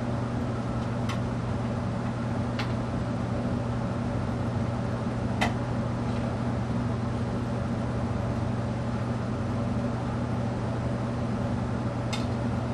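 Steady low hum with a few separate sharp clicks, the clicks from wiring being handled as a variable speed control is hooked up to a ceiling fan.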